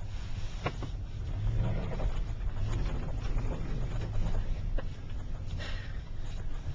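A car driving slowly through deep snow: a steady low engine and road rumble with scattered short knocks.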